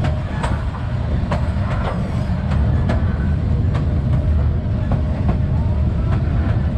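Vietnam Railways passenger train running, a steady heavy rumble with short clacks of the wheels over rail joints coming at an uneven pace, about two a second.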